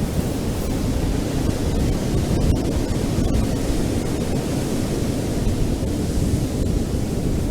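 Ocean surf on a beach: a continuous, steady wash of wave noise, heaviest in the low end.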